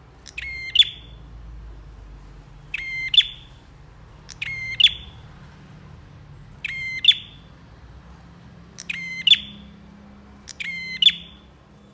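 Prenjak (prinia) calling: short bursts of rapid, sharp, clicking notes, repeated about every two seconds, six times.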